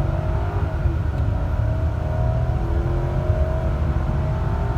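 2006 Lexus LS 430's 4.3-litre V8 under hard acceleration, its pitch climbing through the gears with a shift about a second in.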